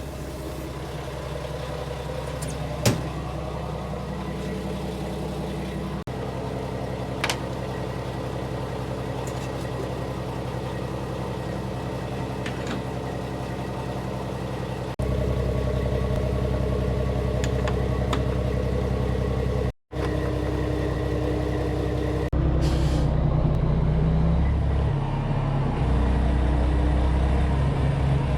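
Heavy diesel engine running steadily, with a sharp click about three seconds in. The sound changes abruptly several times and drops out briefly near the two-thirds mark, then runs louder toward the end.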